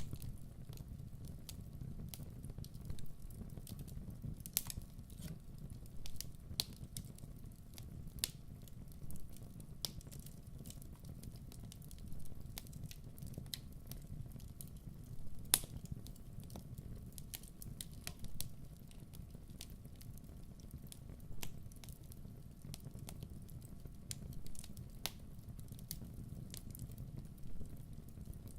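Wood fire burning with a steady low rumble and irregular sharp crackles and pops, one louder pop about halfway through.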